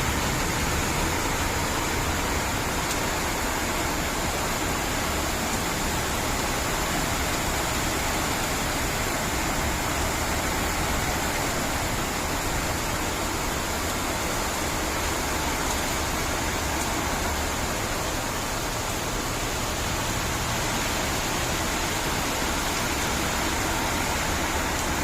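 Steady heavy rain, an even loud hiss.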